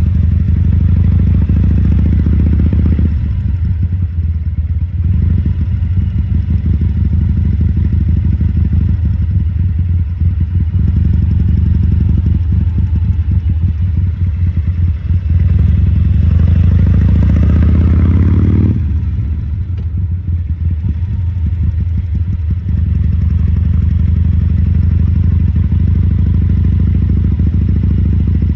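2014 Harley-Davidson Sportster 1200 Custom's air-cooled 1200 cc V-twin running steadily at low speed. A little past the middle its pitch rises for a few seconds as it is throttled up, then drops suddenly as the throttle is closed.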